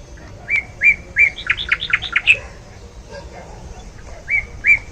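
A songbird singing: three short whistled notes followed by a quick run of falling notes, starting about half a second in, with the same phrase beginning again near the end.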